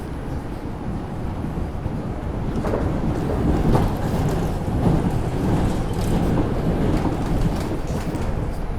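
R142 subway train running between stations, the wheels rumbling on the track. The rumble swells louder through the middle, with a few sharp knocks.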